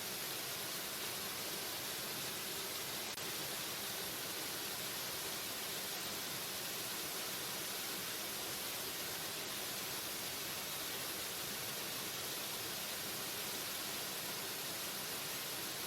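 Waterfall: falling water rushing as a steady, even hiss that does not change.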